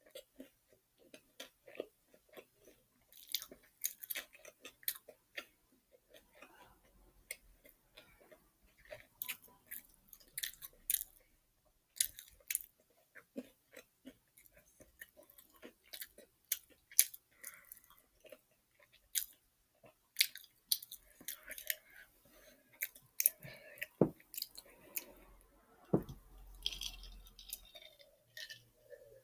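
Close-up chewing of a crispy fried chicken sandwich: irregular crunching and wet mouth sounds, the breading crackling between bites.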